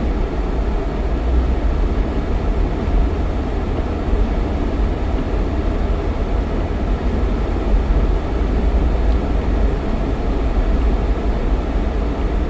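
Steady low rumble of a Jeep Cherokee XJ driving at a constant pace, engine and tyre noise blended together with no change in pitch.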